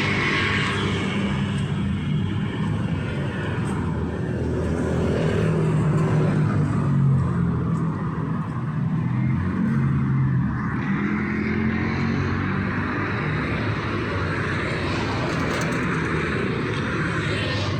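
Road traffic passing along a city street: vehicle engines running with a steady hum and tyre noise, swelling as a vehicle goes by about seven seconds in.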